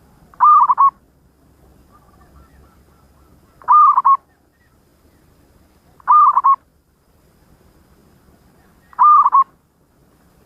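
Zebra dove (perkutut) cooing: four short phrases of two or three quick notes each, about three seconds apart.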